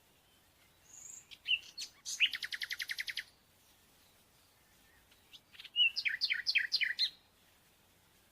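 Small songbird singing two short phrases. The first ends in a fast trill of about a dozen notes a second, and the second, a few seconds later, is a quick series of down-slurred notes.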